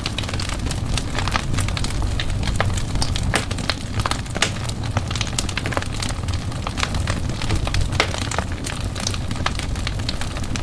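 Wood fire in a fireplace crackling: many sharp irregular pops and snaps over a steady low rumble of the flames.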